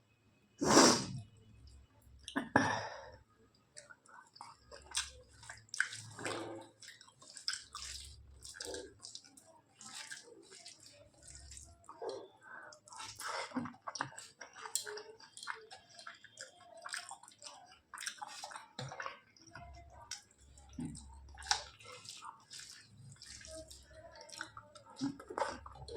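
Close-miked eating sounds: wet chewing, lip smacks and squishy clicks from a mouthful of rice, vegetable curry and chicken, with two louder bursts in the first three seconds.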